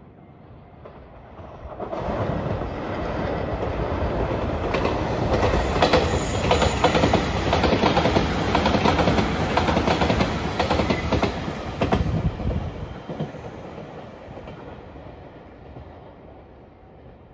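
JR Shikoku 8000-series "white Anpanman" Shiokaze limited express electric train passing at speed: the noise builds from about two seconds in, peaks with a quick run of wheel clicks over the rail joints, then fades away.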